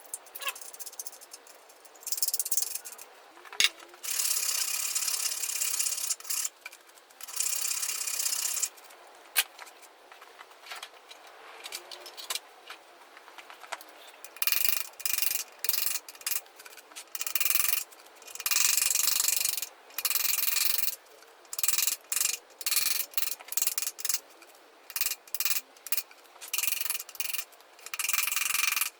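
Handheld power tool run in repeated short bursts against metal, each burst lasting about half a second to two seconds with pauses between; the bursts come thicker and faster in the second half.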